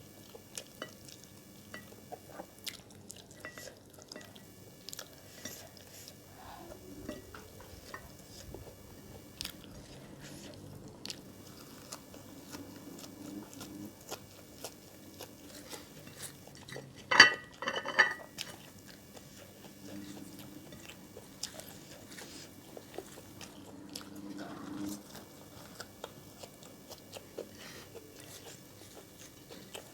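Close-up eating sounds: biting and chewing of food with small clicks and scrapes of dishes, and a sharp, louder clatter a little past the middle.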